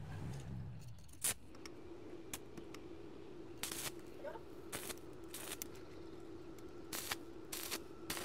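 A series of short rasping strokes and sharp clicks, roughly one a second, over a faint steady hum that starts about a second and a half in.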